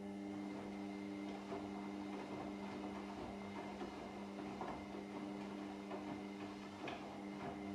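Washing machine running: a steady motor hum with scattered light clicks and knocks from the turning drum.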